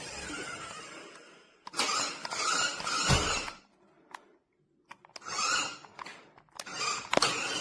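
Electric motor of a Grave Digger remote-control monster truck running in short bursts of a second or two, stopping and starting with brief pauses between them.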